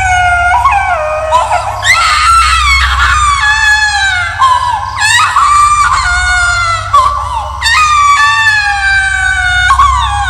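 Horror sound effect of a ghostly voice screaming and wailing: a series of high-pitched cries, the long ones each sliding down in pitch, over a low steady drone.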